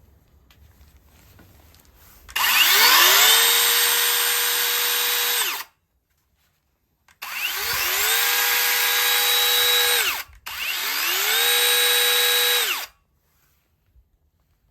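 Cordless electric saw run three times in quick succession. Each time the battery motor spins up with a rising whine, holds a steady high pitch for two to three seconds, and cuts off.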